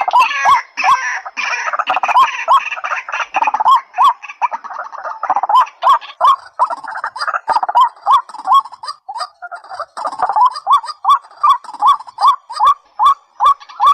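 Rails calling: a loud note repeated about two to three times a second, each with a sharp rising hook, with short clicks between the notes. These are the calls of the white-breasted waterhen and the watercock.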